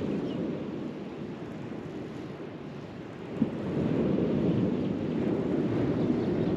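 Wind buffeting the microphone on an open beach: a low rumble that eases off and swells again, with a single brief knock about three and a half seconds in.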